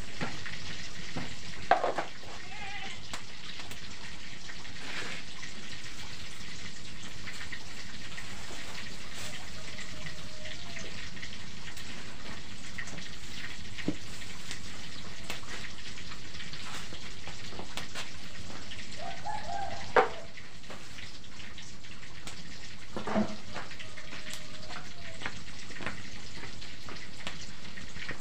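Steady sizzle of food frying in oil in a wok over a wood fire, broken by a few sharp clicks.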